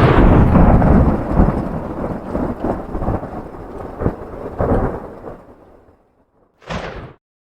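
Thunder: a sharp clap followed by a long rolling rumble with several swells, fading out over about six seconds. A short separate burst of thunder comes near the end and cuts off abruptly.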